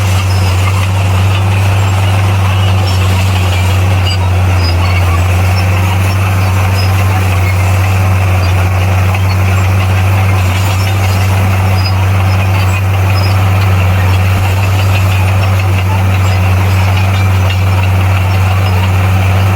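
A bulldozer's diesel engine running steadily at constant speed, with a deep even hum and no change in pitch.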